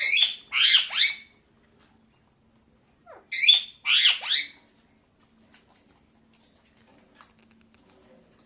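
Pet parakeet squawking: two bursts of harsh, screechy calls, each of a few quick notes, the second about three seconds after the first.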